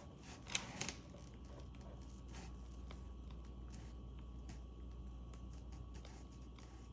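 Faint steady hum with a few light clicks and taps in the first second, then scattered faint ticks.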